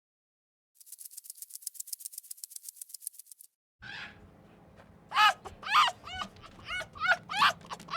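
Fast, dry rattling ticks, about ten a second, stop partway through. After a cut, a young animal, most likely a puppy or kitten, gives short, high-pitched cries about twice a second, loud and repeated to the end.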